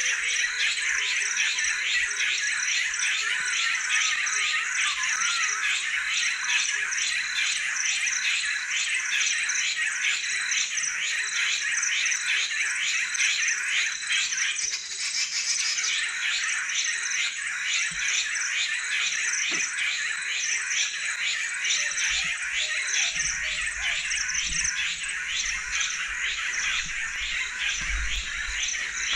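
Dense chorus of crickets and other insects: a steady, high-pitched trilling and buzzing with fast pulsing. Low thuds join it over the last several seconds.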